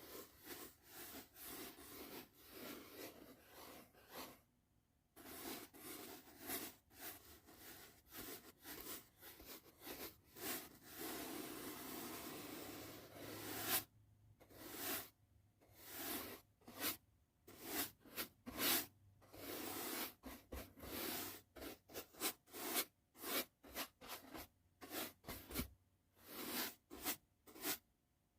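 Soft brush bristles stroking across the microphone in repeated swishes, often about two a second. Partway through comes one longer steady stretch of brushing that ends in a sharp tap.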